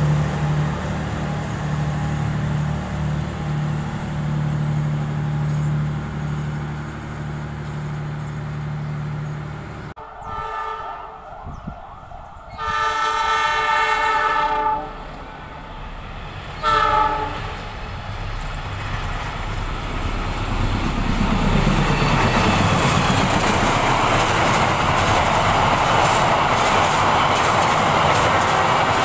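A passenger train rolls past close by with a steady low drone. About ten seconds in, a diesel-electric locomotive's air horn gives one long blast of about two seconds and then a short one. The train then runs past close by, its wheel and rail noise swelling and staying loud.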